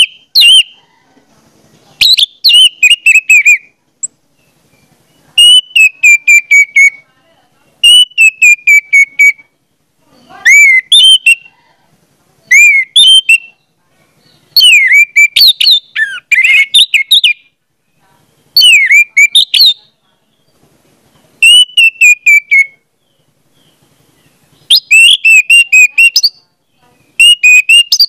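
A bird singing loud phrases of quick chirping, whistled notes, one short phrase every two to three seconds with brief silences between.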